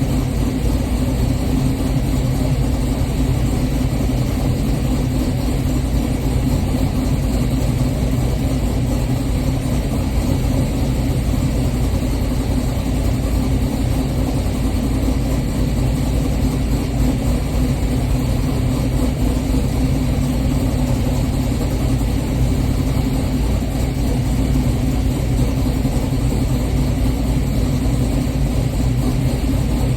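LS-swapped 6.0-litre V8 in a G-body Cutlass idling steadily, warming up after a cold start.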